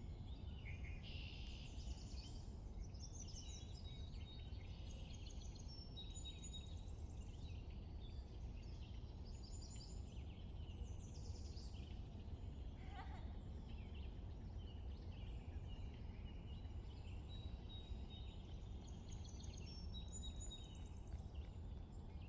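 Spring songbird chorus: several small birds chirping and trilling over and over, over a steady low background rumble.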